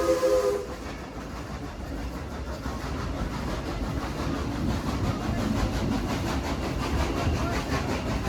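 A Baldwin 2-8-2 steam locomotive's whistle chord, with steam hiss, ends about half a second in. After it comes the steady rumble and rattle of the passenger coach rolling on the rails behind the locomotive.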